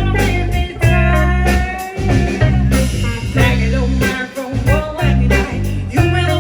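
Live band playing an upbeat song: drums keeping a steady beat, electric bass, guitar, and a voice singing.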